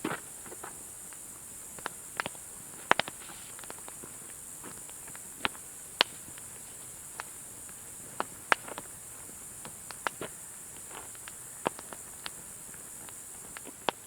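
Small wood fire crackling in a mini fire pit, with sharp irregular pops about once or twice a second over a steady high hiss.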